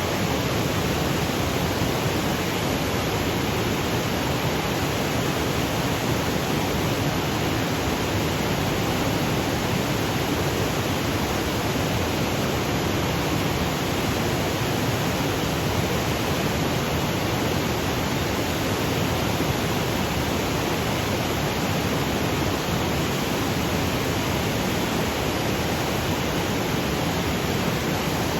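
Waterfall cascading over granite boulders: a steady, even rush of falling water that holds one level throughout.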